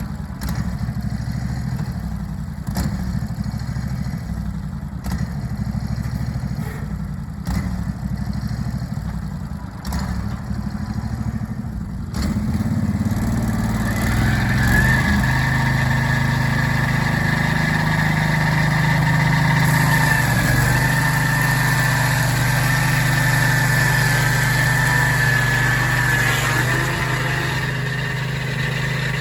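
Portable sawmill running, its engine at first steady with light clicks. About twelve seconds in the sound grows louder and a steady high whine sets in as the blade cuts a wide board from a big cottonwood log.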